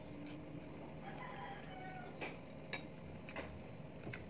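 A person chewing food with the mouth close to the microphone, giving a few sharp wet smacks and clicks in the second half. About a second in, a brief faint high-pitched mewing tone sounds.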